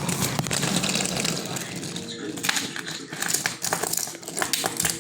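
Toy train set clattering, with many small plastic clicks and knocks and a low hum in the first couple of seconds.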